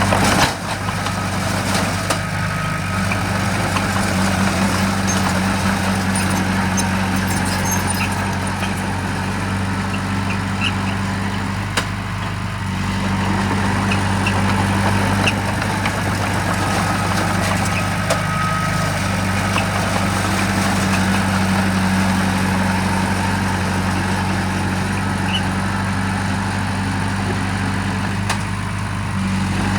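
Heavy diesel engine of earthmoving machinery running steadily, its pitch dipping slightly a few times as the load changes.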